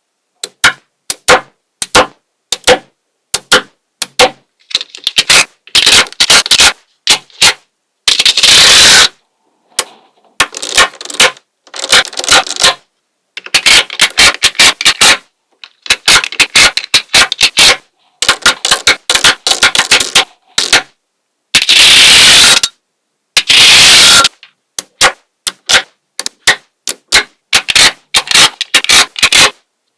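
Small magnetic balls clicking and snapping together as they are handled, in quick irregular clicks with a few longer stretches of dense rattling clatter, the loudest at about nine seconds and again about twenty-two seconds in.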